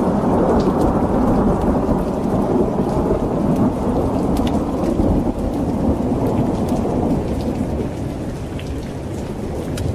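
Rolling thunder rumbling under steady heavy rain, easing slightly near the end, with scattered sharp ticks.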